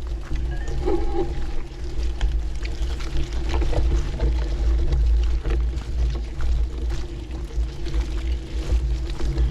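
Brompton folding bike rattling and knocking over a rough, bumpy towpath, with wind rumbling on the microphone and a steady low hum throughout.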